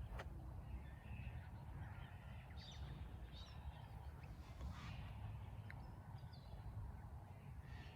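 Scattered calls from several birds, some harsh squawks among them, over a steady low rumble.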